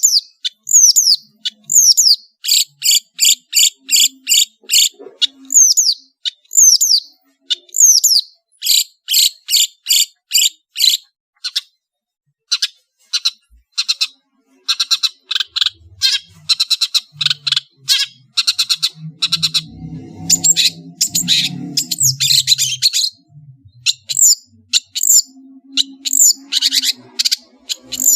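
Long-tailed shrike (cendet) singing loudly and without pause, a varied song of falling high slurs and fast runs of sharp, rapidly repeated notes. About two-thirds of the way through, a lower, rougher stretch of song comes in.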